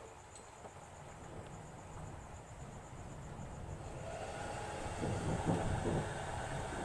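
Hair dryer running: a steady mechanical whirr that grows louder, with a hum coming in about four seconds in and a few low knocks after.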